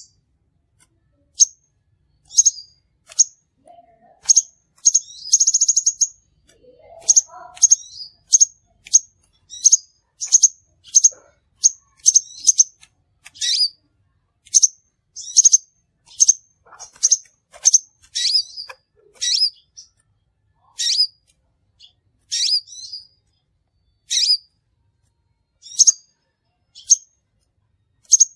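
Crimson sunbird (sepah raja) calling: a long series of short, sharp, high chirps, roughly one a second, with a brief rapid trill about five seconds in.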